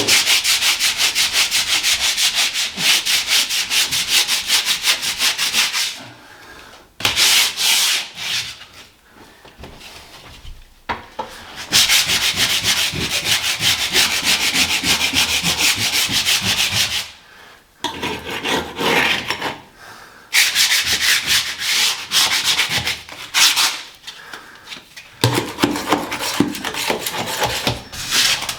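Hand sanding of a painted ceiling with sandpaper: rapid back-and-forth scratchy strokes come in runs of a few seconds, with short pauses between runs. The work knocks flaky, blistered paint back to a hard edge ready for filling.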